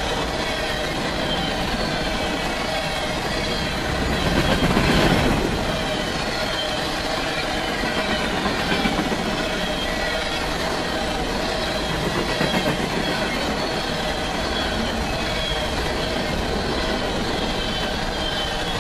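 Empty coal hopper cars of a freight train rolling past close by: steel wheels rumbling and clattering on the rail, with wavering high squeals from the wheels. The noise swells louder about four to six seconds in and again briefly near nine and twelve seconds.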